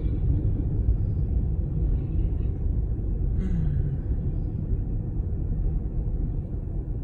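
Freight train rolling slowly past a level crossing: a steady low rumble of wheels and cars, heard from inside a waiting car.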